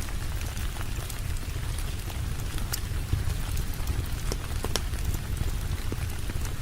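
Steady heavy rain with a deep rumble underneath, and a few sharp pops of wood crackling in a fire.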